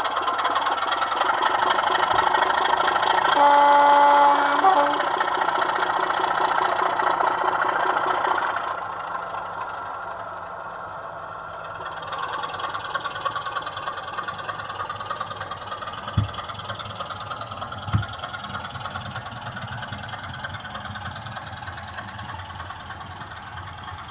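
Sound-fitted OO gauge class 24 diesel model locomotive: its sound decoder plays a diesel engine running loudly, with the horn sounding for about a second and a half a few seconds in; after about eight seconds the engine drops to a quieter, steady running note. Two sharp knocks come later on.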